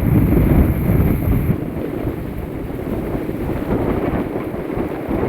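Strong hurricane wind buffeting the microphone: a heavy, fluttering low rumble under a hiss. The high part of the hiss falls away about a second and a half in.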